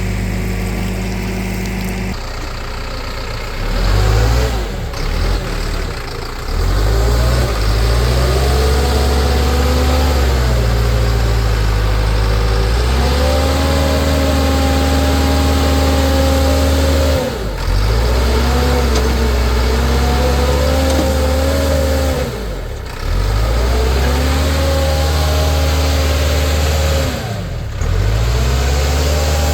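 Heavy diesel engine of a farm tractor-type machine running and being revved, its pitch rising and falling, with several short dips in speed in the second half as it comes under load or is throttled back.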